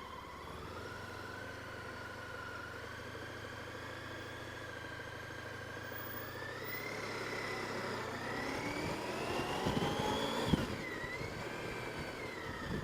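Honda ST1300 motorcycle's V4 engine running near idle, then pulling away: its whine rises steadily in pitch for a couple of seconds and drops suddenly about ten seconds in, as the throttle comes off or the bike shifts.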